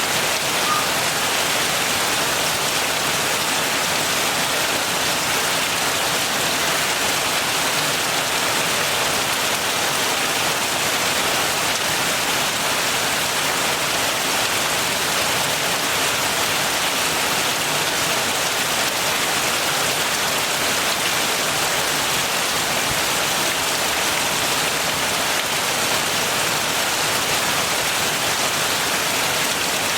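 Steady heavy rain falling and pattering on surfaces, a continuous even hiss.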